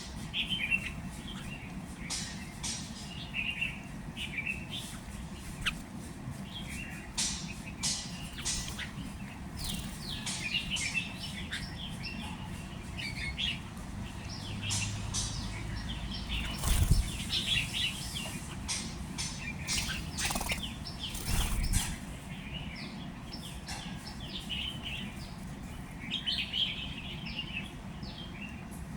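Small birds chirping over and over, with bursts of wing flapping and a couple of low thumps partway through.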